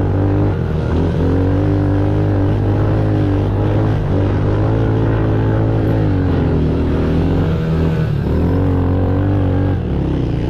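Pit bike engine running while riding, its pitch rising and falling several times with the throttle.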